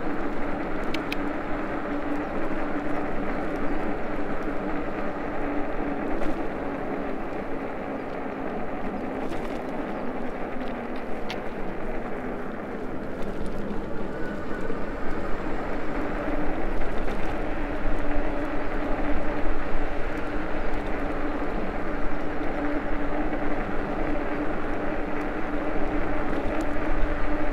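Riding noise of an ENGWE E26 fat-tyre e-bike: a steady hum from the drive and fat tyres over a rushing noise of travel. The hum fades for a few seconds midway, then returns.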